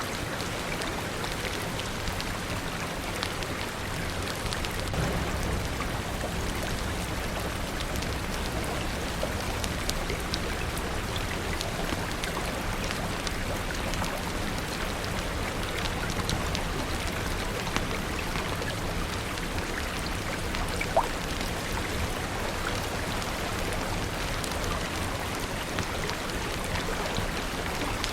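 Steady rain with scattered small crackles and pops, like a wood fire burning, and one sharper pop about three quarters of the way in. A low rumble swells underneath for several seconds near the start.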